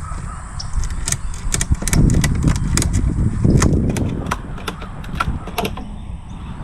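A strap and its metal buckle being worked around stacked wooden swarm-trap boxes: sharp, irregular clicks and rattles. Underneath is a steady low rumble, louder for a moment about two seconds in and again past the middle.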